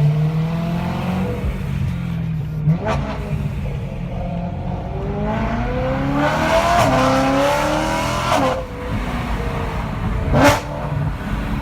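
BMW M3 E92's 4.0-litre V8 running through an HMS exhaust under acceleration: the engine note climbs steadily for a few seconds, then drops as the revs fall. Two sharp cracks come from the exhaust, a smaller one about three seconds in and a louder one near the end.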